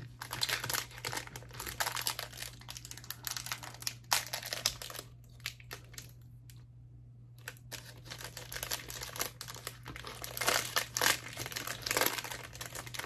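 Food packaging crinkling and rustling as it is handled and unwrapped, in quick irregular crackles, with a pause of about two seconds in the middle.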